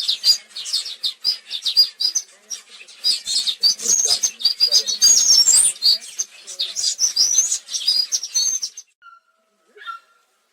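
Many small birds chirping and trilling together in quick, high calls that overlap densely. About nine seconds in the chorus cuts off abruptly, leaving a few quieter, lower calls.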